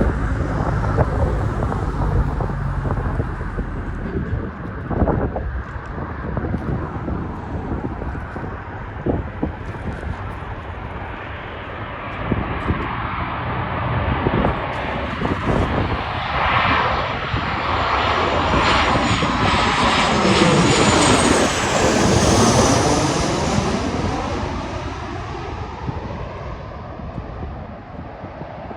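An airplane's engines passing close by: the sound builds, is loudest about three-quarters of the way through with a high whine dropping in pitch, then fades away. Wind buffets the microphone.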